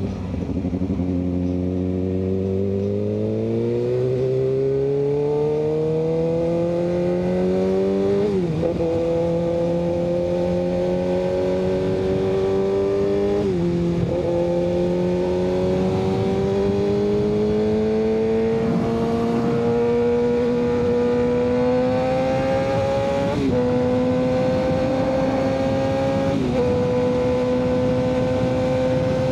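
Kawasaki ZX-6R 636 inline-four running through an M4 exhaust, pulling steadily with its pitch climbing in each gear and dipping at four upshifts.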